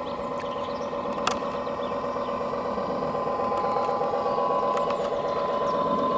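Steady engine-like running of a radio-controlled model tugboat's drive, holding steady tones with a fast even churn. There is one sharp click about a second in, and the higher tone rises slightly about four seconds in.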